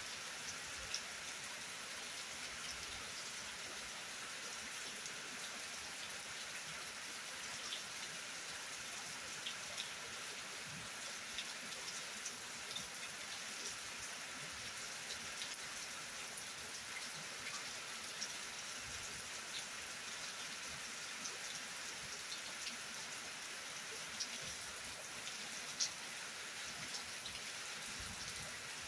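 Steady heavy rain: an even hiss of falling rain dotted with sharper drop taps close by, one louder tap near the end.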